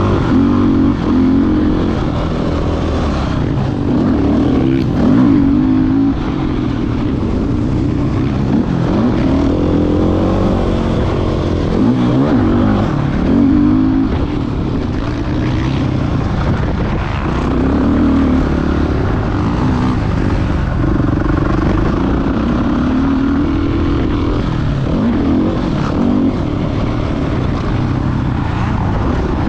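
Motocross dirt bike engine running hard, its pitch rising and falling over and over as the throttle is opened and closed through the track's turns and straights.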